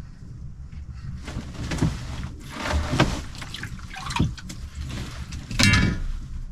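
Water splashing and gurgling in a few short bursts, the loudest near the end.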